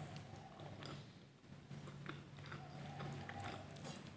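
Faint close-up eating sounds: a person chewing a mouthful of food, with scattered small clicks and smacks, over a low steady hum.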